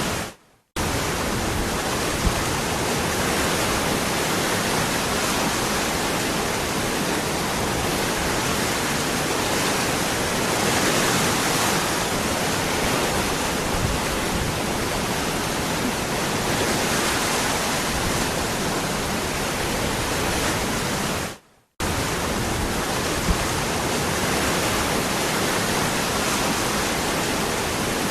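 Waterfall: a steady, even rush of falling water. The sound cuts out to silence for about half a second twice, just after the start and about 21 seconds in, then resumes at once at the same level.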